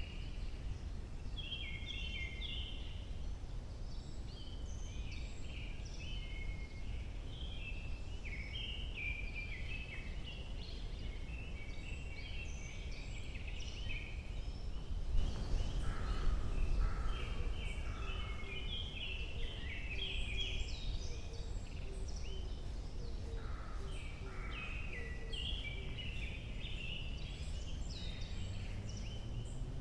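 Several small songbirds singing and chirping in a spring forest, many quick, high notes overlapping, over a steady low rumble of background noise. A louder swell of noise comes about halfway through, and a low rising hum starts near the end.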